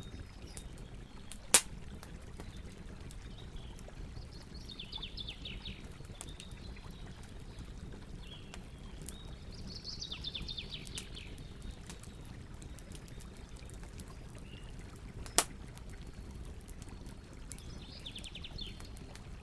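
Campfire crackling, with two loud sharp pops, one about a second and a half in and one about fifteen seconds in, over the steady low rush of a river. A bird sings a short rapid trill three times.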